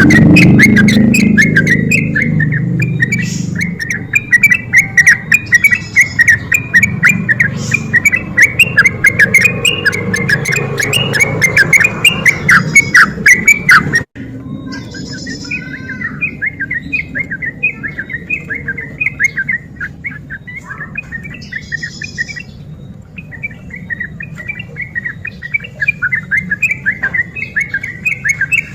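Yellow-vented bulbul (trucukan) singing a fast, rolling chatter of rapid repeated notes, the 'ropel' song used as a lure call. The recording breaks off abruptly about halfway through, and the song resumes a little quieter.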